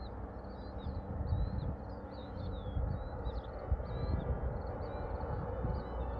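Gusty wind buffeting the microphone with an uneven low rumble, while small birds chirp quickly and repeatedly throughout.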